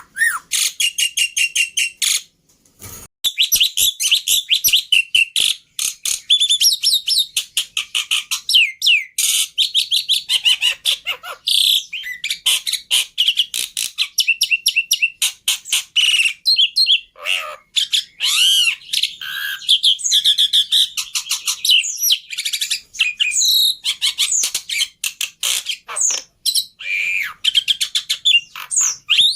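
Black-winged starling song played as a lure and master training track: a fast, dense run of chirps, rattling trills and rising and falling whistles, with a short break about two and a half seconds in.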